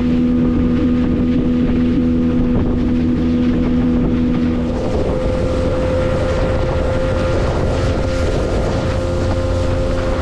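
Fishing boat's motor running steadily at speed, with wind buffeting the microphone and water rushing past the hull. About halfway through, the engine note shifts and climbs slightly.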